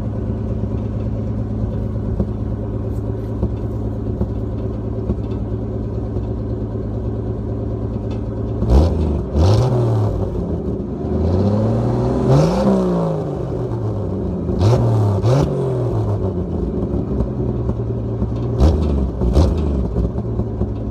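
Chevy 250 inline-six with dual glass pack exhaust idling steadily, then revved: two quick blips, one longer rev that climbs and falls back, then two more pairs of quick blips, settling back to idle between them.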